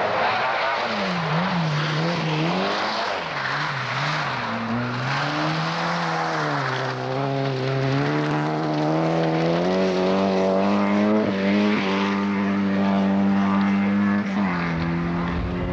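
Rally car engine running hard, its revs rising and falling quickly several times, then climbing and holding high with a brief dip near the end, over a steady rushing noise.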